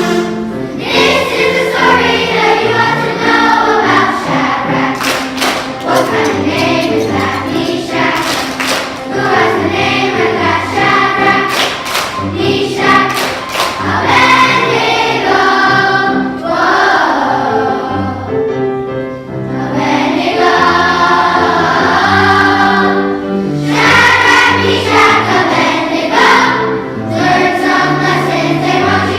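Children's choir singing a song in unison over an instrumental accompaniment with a steady bass line.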